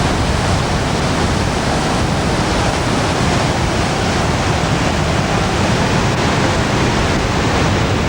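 Loud, steady rush of flowing water, an even roar with no rhythm, that cuts off abruptly near the end.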